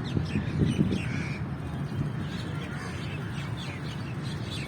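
Many birds chirping and calling in quick, short, falling notes, over a steady low rumble that is a little stronger in the first second.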